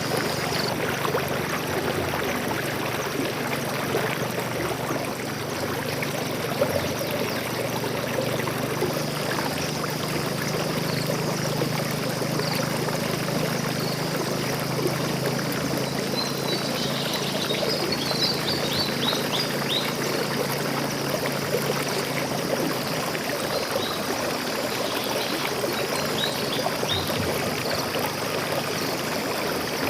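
Stream water flowing and trickling steadily. Birds chirp in short bursts of high notes about halfway through and again near the end.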